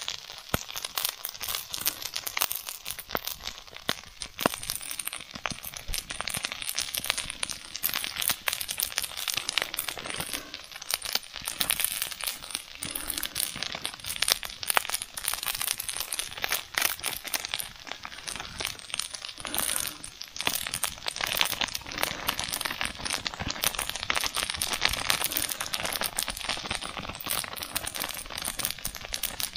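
Fried rice sizzling and crackling in a hot iron pan: a dense, steady crackle made of fast clicks.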